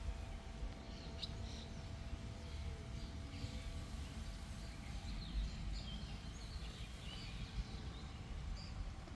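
Small birds chirping and twittering in many short calls, busiest through the middle, over a steady low rumble.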